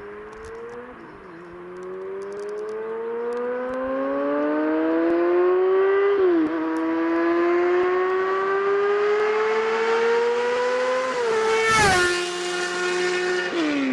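Sport motorcycle engine accelerating hard through the gears: the pitch climbs, drops at each upshift (about a second in, around six seconds, around eleven seconds and near the end), then climbs again, getting louder as the bike approaches.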